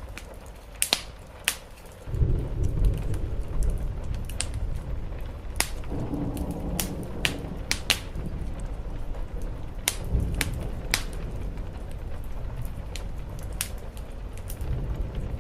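Wood fire crackling with sharp, irregular pops over steady rain on a roof. A low rumble swells about two seconds in and carries on under the crackle.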